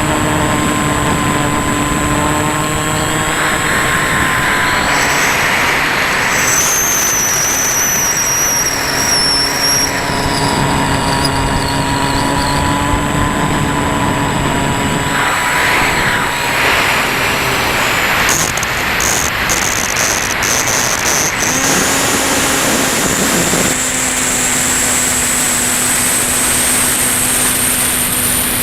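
Electric motor and propeller of a Ranger EX FPV model plane running steadily in flight, with air rushing past. The motor's drone shifts in pitch a few times as the throttle changes, over a thin high whine.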